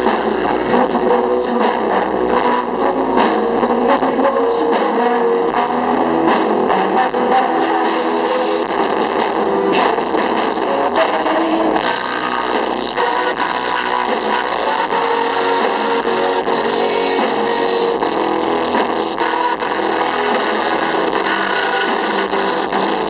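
Live rock band playing an instrumental passage of the song, led by electric guitar, with no singing.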